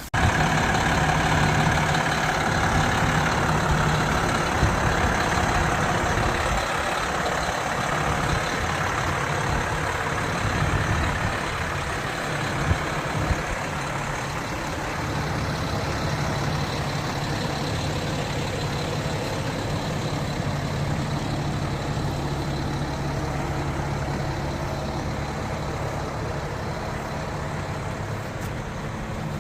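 Concrete pump truck running: a steady diesel engine hum with machinery noise over it, cutting in suddenly at the start and holding steady throughout.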